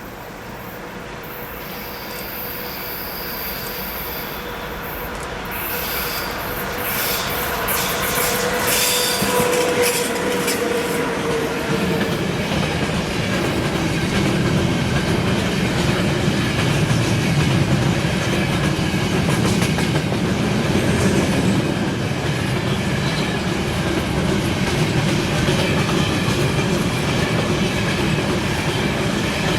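A train approaching along the track, growing louder over the first eight seconds or so with thin high ringing and clicks from the rails, then passing steadily with a heavy rumble of wheels on rails.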